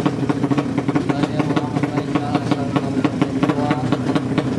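Drag-racing motorcycle engine idling steadily, with a rapid irregular crackle over its hum.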